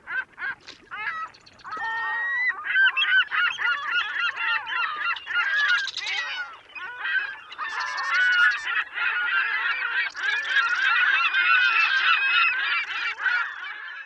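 A flock of birds calling, many loud overlapping calls in a dense, continuous chorus.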